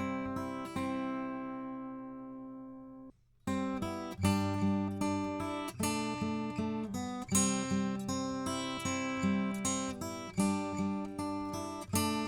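Acoustic guitar chords played back through a Warm Audio EQP-WA tube equalizer with its high frequencies boosted. A chord rings out and fades, and the sound cuts out briefly about three seconds in. Then steady struck chords resume.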